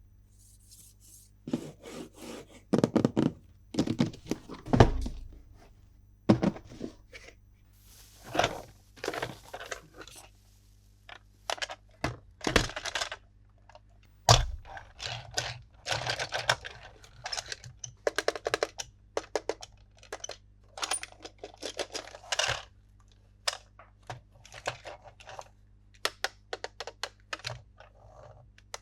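Plastic toys and packaging being handled during an unboxing: a long irregular run of clicks, taps and knocks, with stretches of crinkling and tearing. The loudest knocks come about five seconds in and again about fourteen seconds in.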